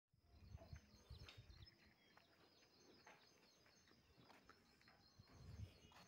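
Near silence: faint outdoor ambience with distant, high-pitched bird chirps repeating throughout and a few soft low rumbles on the microphone.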